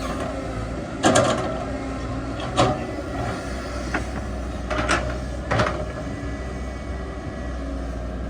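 Excavator's diesel engine running steadily, with four sharp metallic clanks over the steady hum, the loudest about a second in.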